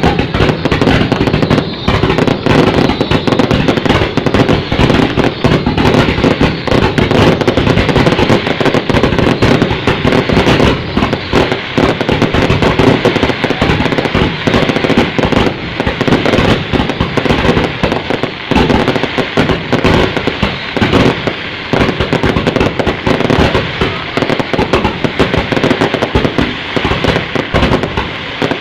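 Fireworks going off without a break: a dense barrage of overlapping bangs and crackles.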